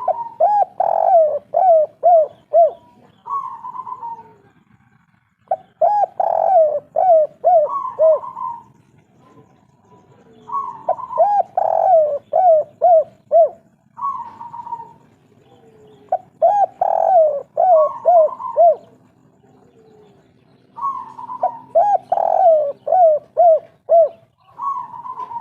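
Spotted dove (derkuku/tekukur) singing a 'kuk 3' style song. It repeats about five phrases, roughly one every five seconds; each is a coo followed by a quick run of short, falling notes.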